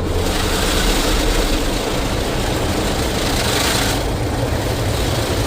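Rotating cloth brushes and water spray of a WashTec SoftCare SE rollover car wash working over the car on its final brush pass: a steady rushing over a low machine rumble, easing somewhat about four seconds in.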